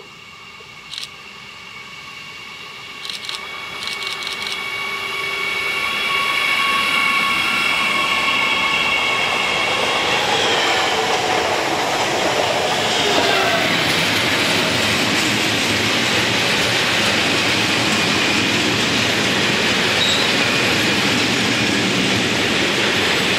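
An approaching electric-hauled freight train: a whine of several steady high tones grows louder over the first six seconds, with a few short clicks. About ten to thirteen seconds in the tones drop in pitch as trains pass close by. The rest is the loud steady rolling of freight wagons over the rails.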